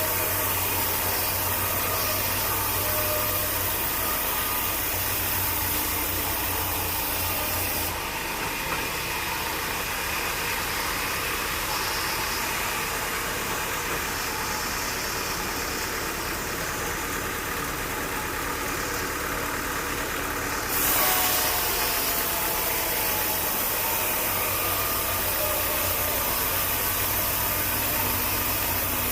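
An engine running steadily near idle, with a low hum underneath. The high hiss drops away about 8 s in, then returns abruptly with a brief louder swell about 21 s in.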